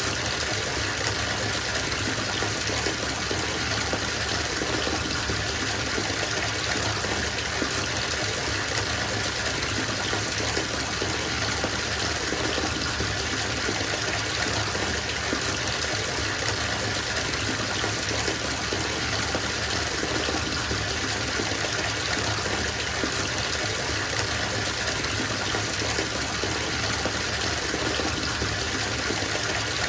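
Water running from a tap into a bathtub as it fills, a steady, even gush of falling water with no change.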